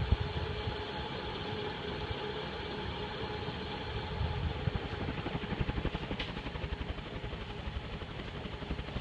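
56-inch TAT industrial ceiling fan with heavy steel blades running steadily on high: a continuous motor hum over the rush of moving air.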